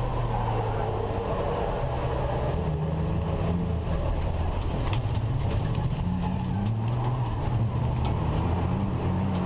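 Racing trucks' diesel engines running, a steady low drone whose pitch steps up and down.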